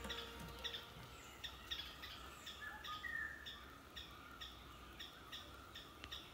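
Forest birds calling faintly: a short chirp repeated about twice a second, with a few longer falling whistled notes among them.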